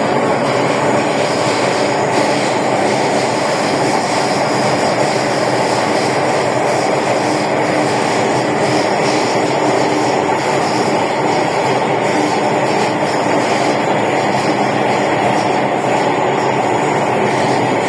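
Hong Kong MTR M-Train heard from inside a passenger car while running: a steady, loud rumble of wheels on rail with the hum of the moving train.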